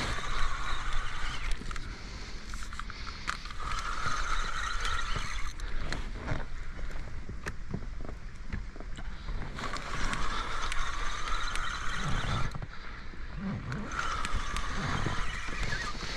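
Penn Affinity fishing reel whirring and clicking in repeated swells of a second or two as line is wound in and given against a hooked carp.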